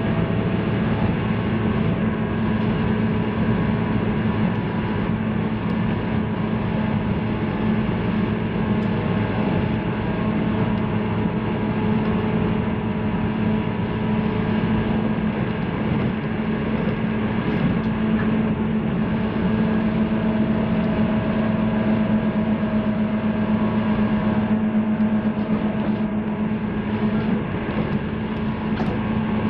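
JR 185 series electric train running at a steady speed: a constant drone from the wheels and running gear, with several held tones that do not rise or fall.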